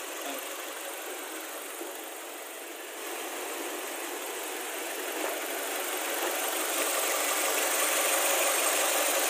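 Nissan X-Trail's QR20 four-cylinder petrol engine idling on a test run after a top overhaul, its electric radiator fan running. The steady rushing noise grows louder from about three seconds in, then holds.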